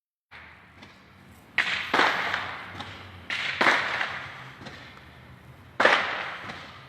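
Five distant explosive bangs, two close pairs and then one more, each trailing off in an echo.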